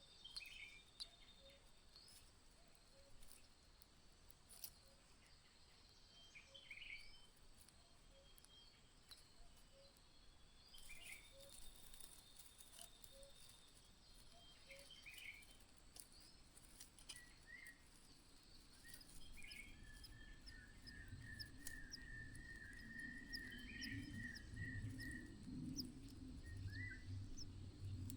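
Faint outdoor ambience: short bird chirps every second or two, a longer buzzy trill in the second half, and faint insect ticking. A low rumble builds over the last third.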